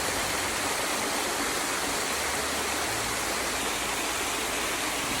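Small waterfall's water rushing steadily.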